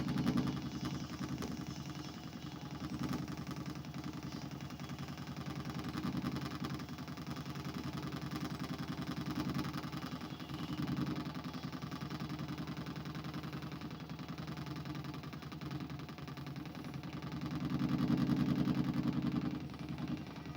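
A continuous low mechanical buzzing drone with a fast pulsing texture, swelling louder every few seconds, most strongly near the end.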